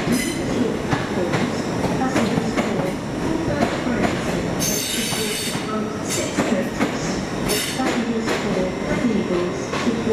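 A train moving through the station, with repeated knocks from the wheels and rails. A high-pitched squeal comes in a burst about halfway through and briefly again about three seconds later.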